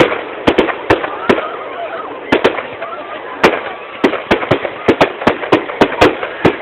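Fireworks going off in a rapid, irregular string of sharp bangs and pops, with a brief lull about two seconds in. A crowd's voices carry on underneath.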